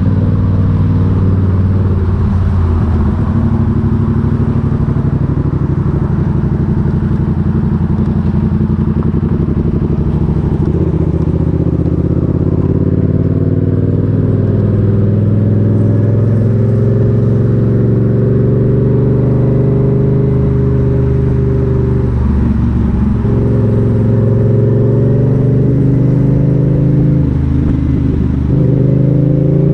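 A motorcycle engine running under way, its pitch slowly rising and falling with the throttle, with short dips about two-thirds of the way in and again near the end, like gear changes.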